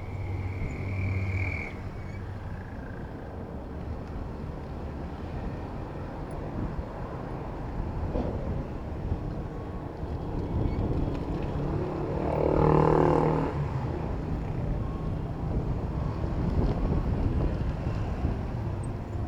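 Road traffic heard from a bicycle in city streets: a steady low rumble of vehicle engines and tyres. A brief high squeal comes in the first two seconds, and a vehicle passes close and loud about two-thirds of the way in.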